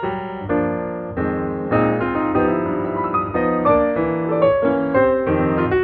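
Background piano music: a steady run of clean single and chorded notes at an easy pace.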